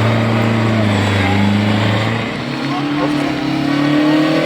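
Historic rally car engine running at steady revs. About halfway through it briefly drops off, then revs up with a rising pitch near the end.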